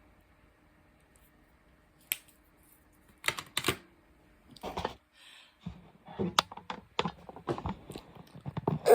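Light clicks and rattles of diamond-painting drills and tools being handled. The clicks are sparse at first and come thicker from about six seconds in.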